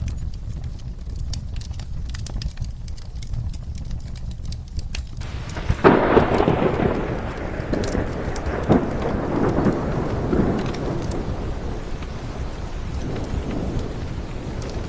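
Steady rain with the fine crackle of a wood fire, then a roll of thunder that swells about five seconds in, cracks a second later and rumbles on for several seconds before fading.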